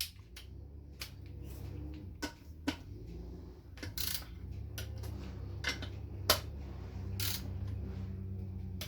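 Torque wrench and hand tools clicking and clinking on the transmission valve body as its bolts are torqued to 9 foot-pounds: sharp, separate clicks every half second to second, over a low steady hum.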